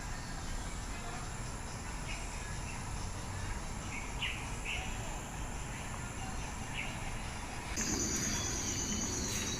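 Outdoor background noise with a few short bird chirps. About eight seconds in, a steady high-pitched buzz and a louder low rumble start suddenly.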